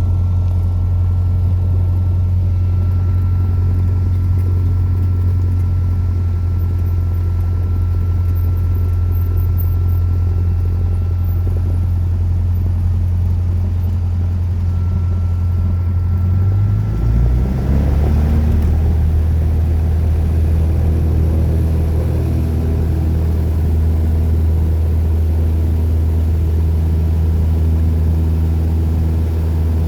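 Cessna 172's piston engine and propeller running with a steady low drone. The engine note shifts once, about 17 seconds in, as power is changed.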